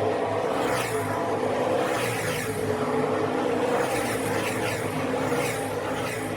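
A truck driving: steady engine running with road noise.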